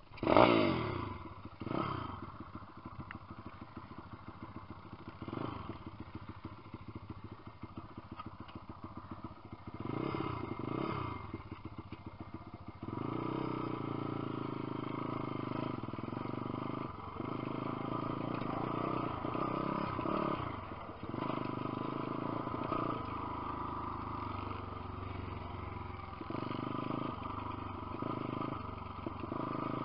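Lifan 150cc pit bike engine: a sharp rev right at the start that falls away, a few short blips of the throttle, then steady running under load from about halfway through.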